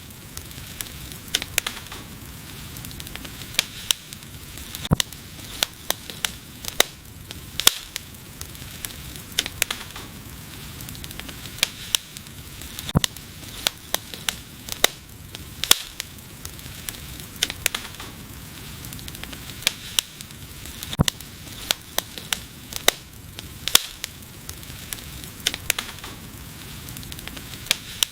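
Wood fire burning, with a steady hiss and frequent sharp, irregular crackles and pops from the burning logs.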